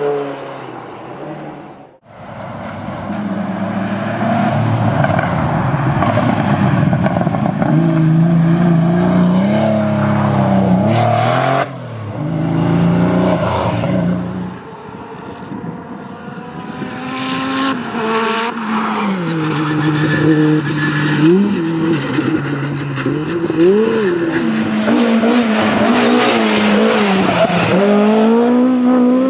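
Historic rally cars driven hard on a stage, their engines revving up and dropping back again and again through gear changes. The sound is several short passes cut together, breaking off abruptly three times.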